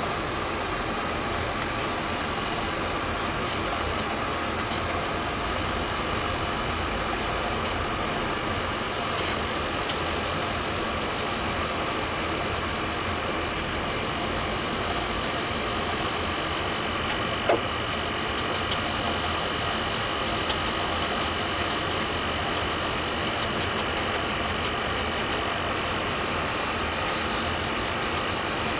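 Steady running hum of an electric machine, with a faint whine on top and a few light clicks and taps.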